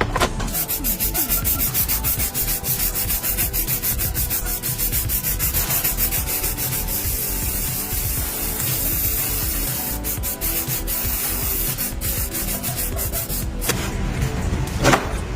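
Hand sanding of a motorcycle part, rapid back-and-forth rubbing strokes, several a second, that stop shortly before the end.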